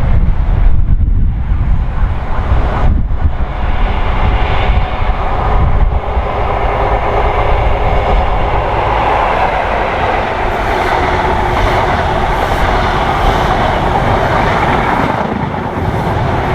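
A train running past on the line: a continuous rumble and rail noise that grows fuller partway through.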